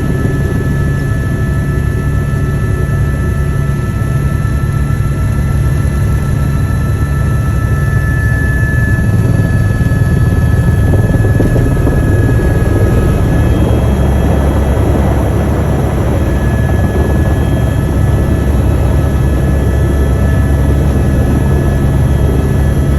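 Helicopter in flight: a steady low engine and rotor drone with a high turbine whine over it, growing a little louder about nine seconds in.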